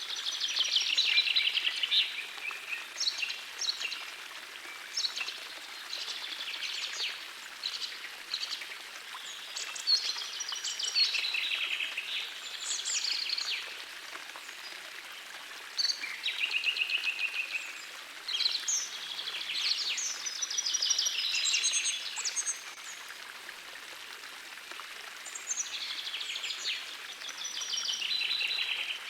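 Songbirds singing in short, high, rapidly trilled phrases every few seconds, over the steady rush of a small forest stream.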